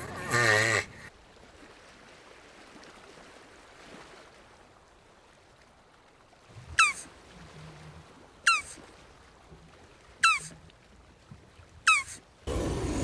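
Jabuti tortoise vocalising: a loud, wavering, moaning call at the very start and another sliding down in pitch that begins near the end. In between, after a quiet stretch, come four short, sharp calls that fall steeply in pitch, evenly spaced about a second and a half apart.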